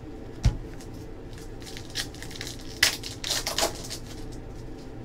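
A single thump on the tabletop about half a second in, then about two seconds of crinkling and clicking as trading card packs and cards are handled.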